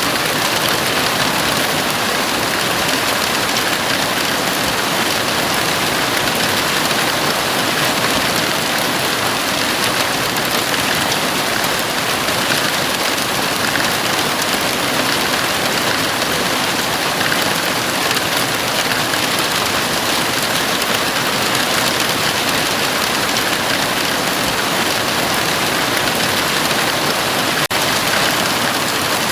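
Heavy rain falling steadily on the roof of a house, an even, unbroken hiss of drops.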